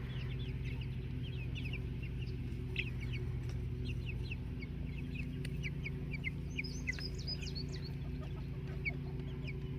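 A flock of meat chickens peeping and clucking: many short, falling chirps, with a steady low hum underneath.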